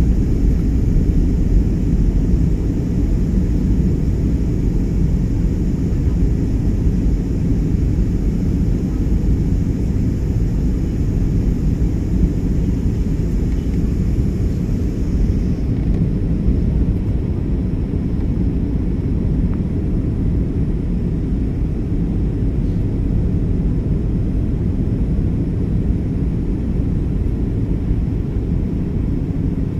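Trigana Air airliner's engines running with a steady low rumble during the landing approach. A faint high hiss over it cuts off about halfway through.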